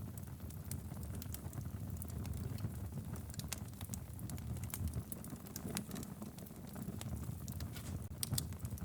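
Wood logs burning in a fireplace: frequent irregular sharp crackles and pops over a steady low rumble of the flames.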